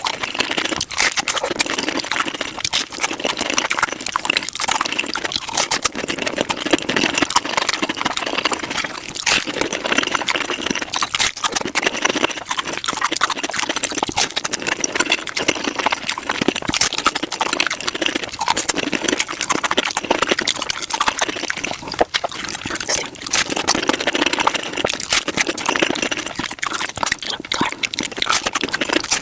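Close-miked eating sounds of tacos played back at five times normal speed: crunching shells and wet chewing and smacking blur into a continuous, rapid stream of crackles and clicks.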